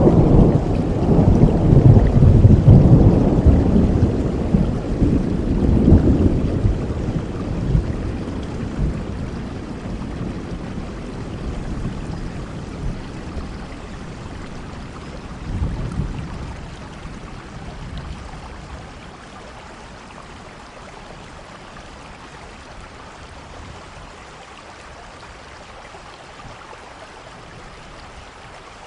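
Steady rain with rolling thunder: a long, loud rumble in the first several seconds, fading away, and a shorter, weaker rumble about halfway through, leaving only the hiss of rain near the end.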